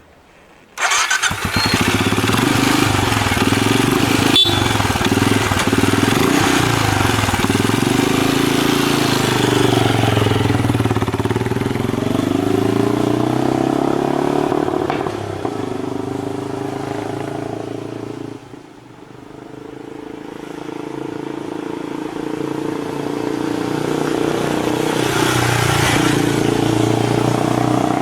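Motorcycle engine running under way, its pitch rising and falling as it is revved through the gears, with rushing air noise over it. The sound comes in abruptly about a second in, eases off around two-thirds of the way through, then builds again.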